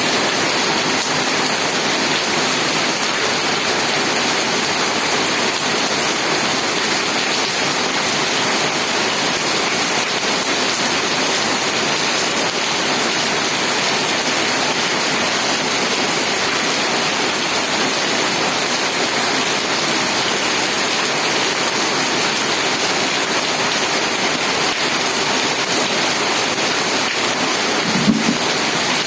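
Steady, heavy rain falling. There is one brief low thump near the end.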